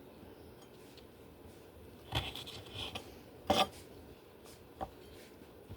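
Three sharp knocks in a kitchen during vegetable prep, spaced a little over a second apart, the first with a brief rustle, over low room noise.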